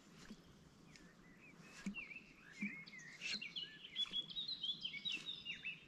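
A songbird singing a run of quick, twisting chirps, starting about two seconds in and getting busier toward the end, with a few faint taps underneath.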